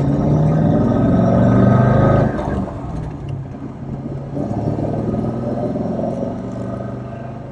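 Car engine running loudly and revving, dropping off suddenly about two seconds in, picking up again a couple of seconds later, then fading away.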